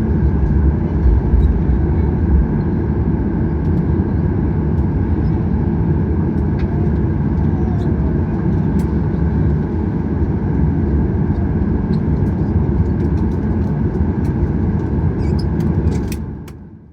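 Cabin noise inside a Boeing 737-800 taxiing after landing: a steady low rumble of its CFM56 engines and the rolling aircraft, with a few faint clicks near the end. It fades out about sixteen seconds in.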